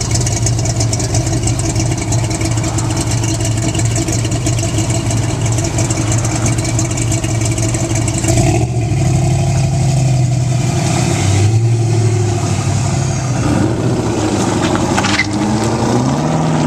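Hot rod truck's engine running steadily at idle, then revving with its pitch rising in a few glides near the end as it accelerates away.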